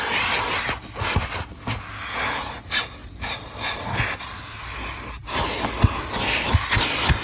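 Car wash vacuum hose sucking air through a nozzle tool, its hiss rising and falling as the tool is worked over the car's carpet and into tight spots. A few dull knocks near the end.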